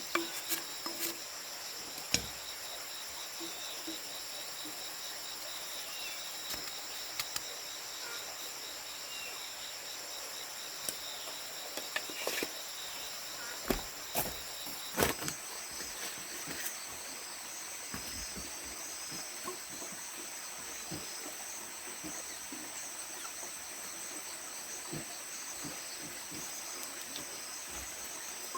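Steady, high-pitched insect chorus of crickets trilling without a break, with a higher single note taking over about halfway through. Now and then come soft knocks and rustles.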